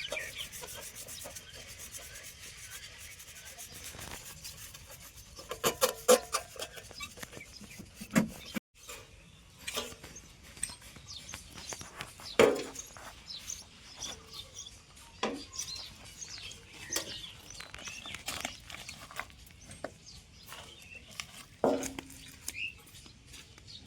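Rasping, scraping strokes with a hand tool, a fast run of strokes at first, then scattered single sharp knocks.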